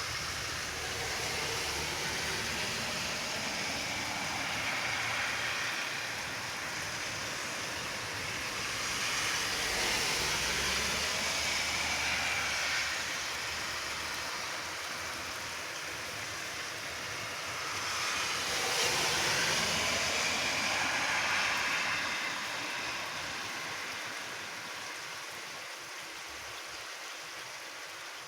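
Steady downpour of rain during a night thunderstorm, a continuous hiss that swells louder three times and eases off toward the end.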